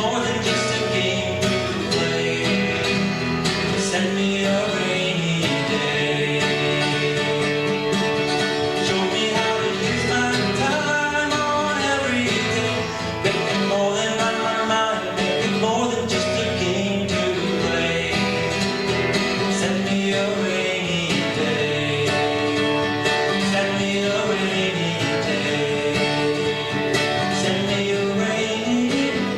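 Live acoustic guitar music in a country/folk style, an instrumental stretch of plucked and strummed strings.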